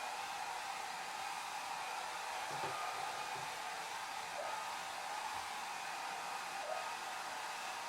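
Hair dryer blowing steadily, an even rushing hiss with a faint steady whine in it.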